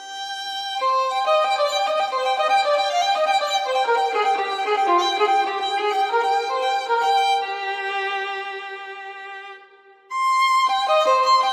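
Background music played on solo violin, a quick melodic line of many short notes; it fades away shortly before the end and the violin comes back in abruptly near the end.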